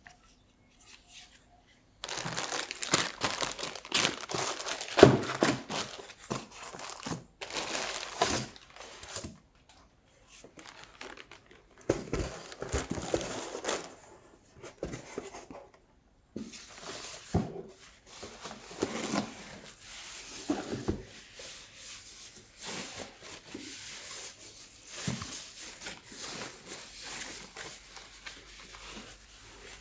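Packaging being handled: plastic wrapping crinkles and rustles in irregular bursts, with short quiet pauses between handlings.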